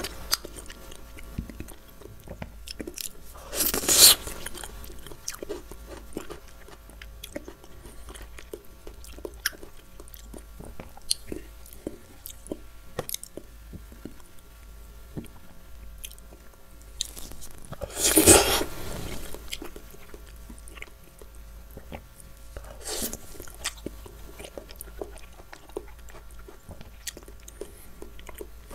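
A person chewing soft fruit, with many small smacking clicks and three louder bursts of biting, about four, eighteen and twenty-three seconds in.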